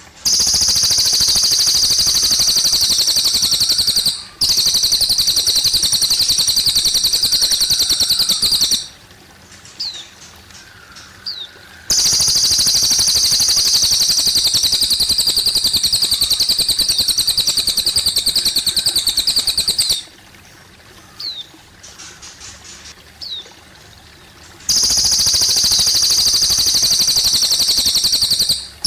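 A cililin songbird singing long, loud, rapid high trills of several seconds each, four bouts with sudden starts and stops. In the pauses between them come short rising chirps over faint trickling water.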